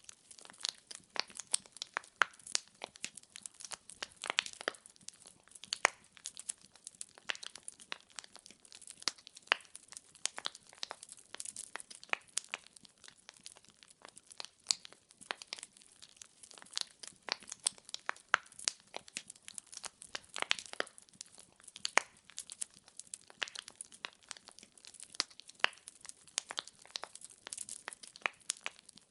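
Wood fire in a fireplace crackling, with dense, irregular pops and snaps of burning firewood.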